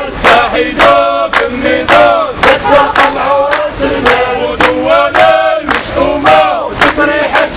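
A crowd of protesters chanting slogans in unison in Moroccan Arabic, in short rhythmic phrases over a steady beat of sharp hits about twice a second.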